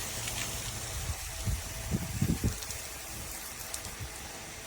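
Steady hiss of water spraying from the shower head of a portable tankless water heater, with a few soft low thumps about halfway through.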